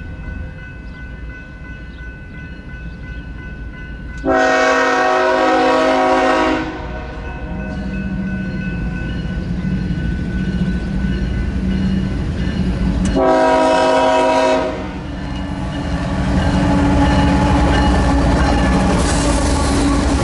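Locomotive horn sounding twice, a long blast and then a shorter one, over the steady rumble of a moving train. The train's rumble and wheel noise grow louder near the end.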